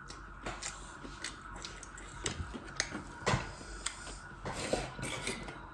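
Eating at a plate: irregular short clicks and scrapes of utensils against dishes, a few of them sharper and louder in the second half.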